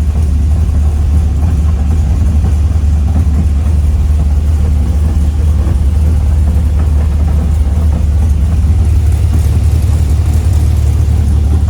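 Dodge Viper V10 race engine idling steadily on a chassis dyno, a loud even low hum with no revving.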